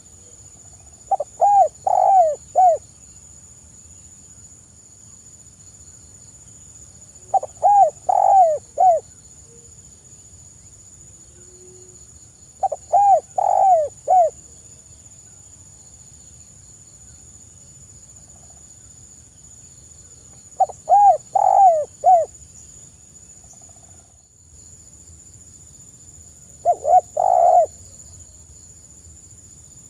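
Spotted dove (tekukur) cooing: five phrases in turn, each a few quick coos closing on a longer one, spaced about six to eight seconds apart, over a faint steady high-pitched hiss.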